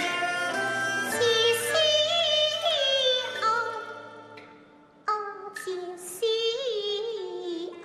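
Taiwanese opera (gezaixi) singing with instrumental accompaniment: a voice holding long, wavering notes, with a short pause between phrases about five seconds in.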